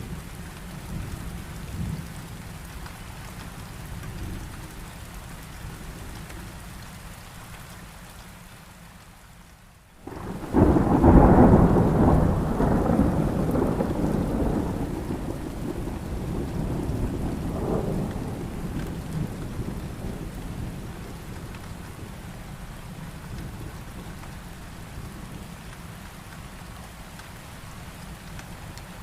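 Heavy rain falling steadily, with a loud thunderclap about ten seconds in that rolls on and fades slowly over the next ten seconds or so, swelling once more near the end of the rumble.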